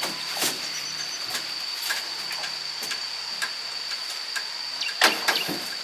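Irregular light clicks and taps, with a cluster of louder knocks about five seconds in, over a steady high-pitched whine.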